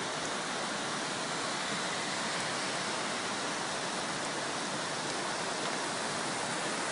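Floodwater rushing steadily past.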